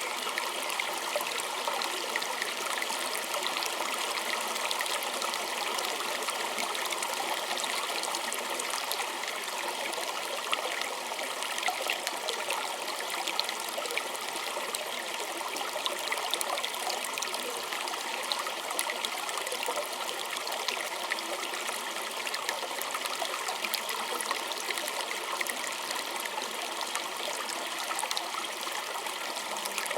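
Small stream trickling and burbling over stones, a steady flow with many small splashes and no change in level.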